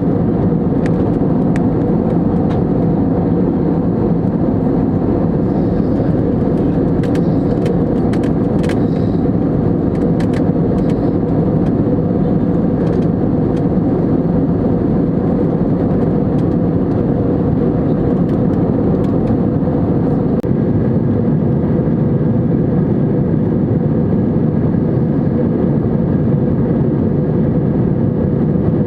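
Steady drone of an Airbus A320neo in flight, engine and airflow noise heard from inside the cabin, with a few small clicks in the first half.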